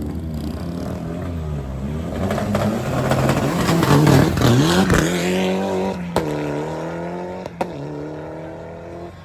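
Drag race car engine revving, then accelerating hard with a rising pitch that peaks about four seconds in. Two sharp cracks at upshifts drop the pitch before it climbs again, and the sound fades as the car pulls away.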